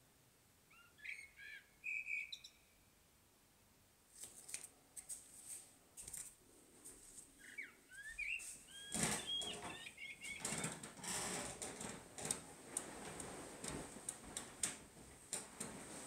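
Garden birds singing in short phrases of quick, sliding chirps, about a second in and again around eight seconds. From about four seconds a dense, irregular run of scratchy, rustling noises sets in and grows louder from about nine seconds.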